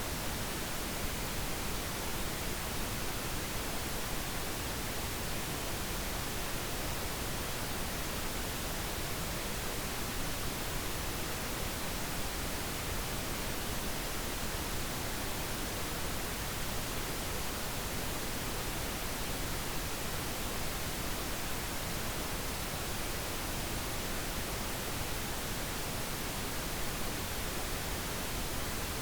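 Steady synthetic pink noise, an even, unchanging hiss spread across all pitches.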